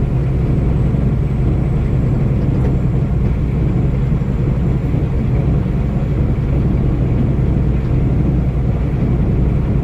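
Steady low drone of a moving vehicle, engine and road noise heard from inside the cab, with no change in pitch or level.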